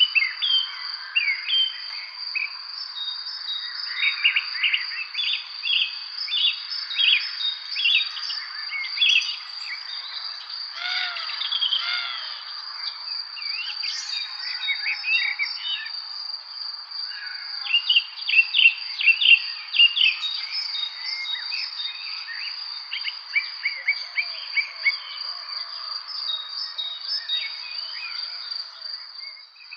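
Several small birds chirping and singing in quick, overlapping notes, over a steady high-pitched insect trill. The chirping is busiest twice, a few seconds in and again around the middle.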